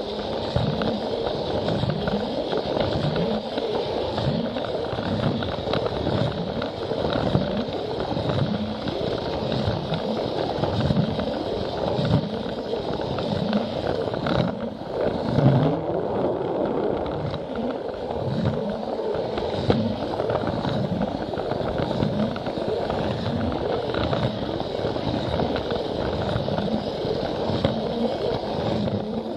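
Plarail toy train running on plastic track: a steady rattling run of the small motor and wheels, with a low knock repeating about once or twice a second.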